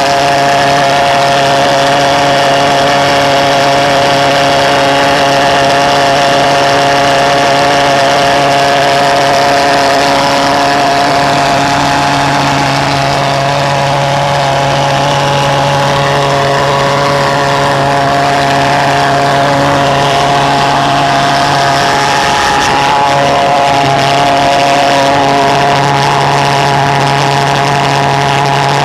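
Reed-valve pulse jet engine running continuously: a loud, steady buzzing drone with a low pulse-rate tone and many overtones, its pitch wavering slightly now and then.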